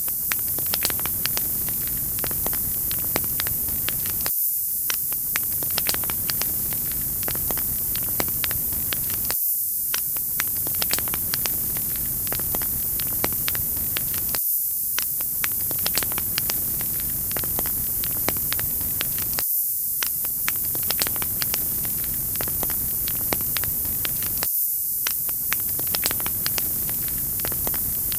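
Wood fire crackling: a steady hiss with frequent small sharp pops and snaps. The sound is a loop, with a brief dip that repeats about every five seconds.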